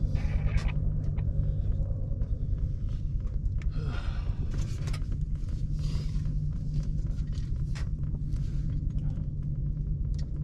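Huey helicopter in flight: rotor and turbine running as a steady low drone, the level pulsing quickly with the rotor beat, with a few faint clicks over it.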